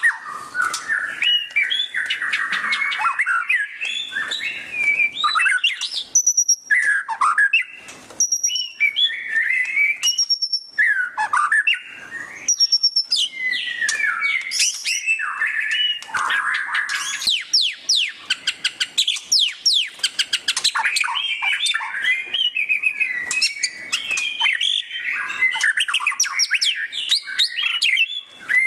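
White-rumped shama singing loudly and without pause: a varied song of rapid chattering trills, quick chirps and sliding whistled notes, the fast twittering that bird keepers call 'ngeriwik'.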